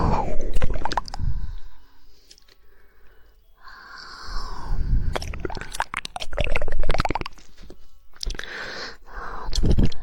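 ASMR mouth sounds close to a sensitive microphone: quick runs of wet tongue clicks, the 'woodpecker' tongue-clicking trigger, between swells of moist, hissing mouth noise, with a quieter pause about two seconds in.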